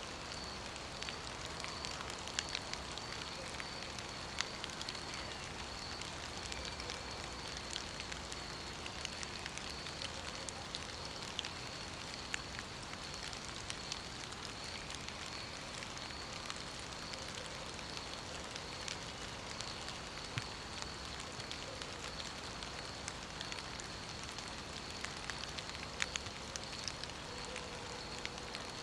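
Steady rain ambience: an even hiss of falling rain with many small scattered drips and crackles, and a steady high-pitched tone running through it.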